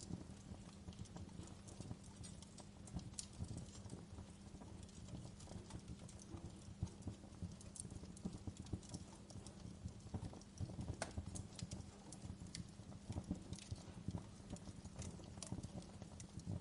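Wood fire crackling: a dense run of small irregular pops and knocks, with sharper snaps every second or so, over a faint steady low hum.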